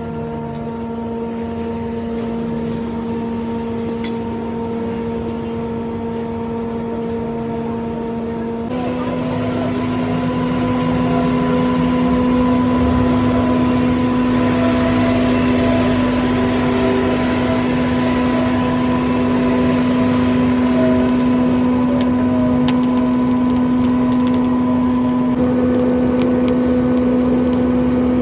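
Steady machine hum at a constant pitch. About nine seconds in it steps slightly higher and grows louder, with a rougher noise over it.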